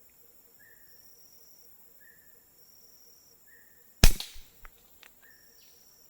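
A single air-rifle shot about four seconds in, a sharp crack with a short tail, followed by a few faint clicks. Behind it, insects call in short repeating bursts.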